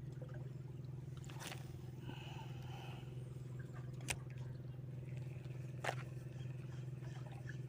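A steady low mechanical hum, like an engine running, with two sharp clicks about four and six seconds in.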